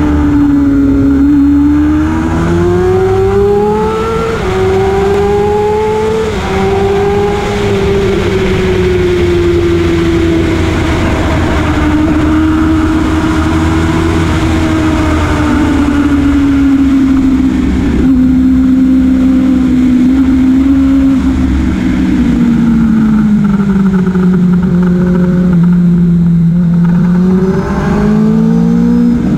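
Motorcycle engine under hard use on a racetrack, heard from an onboard camera with steady wind rush. The engine note climbs with two quick upshifts in the first several seconds, then slowly falls through a long fast stretch. It drops lower for a corner a little past twenty seconds and rises again under acceleration near the end.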